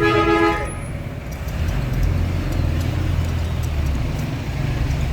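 A vehicle horn sounds a held multi-tone blast that stops under a second in. A steady low rumble of engines and traffic follows.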